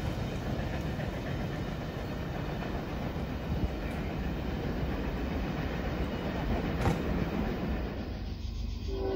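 Norfolk Southern freight train rolling by on the rails, a steady rumble of the cars on the track, with a sharp click about seven seconds in.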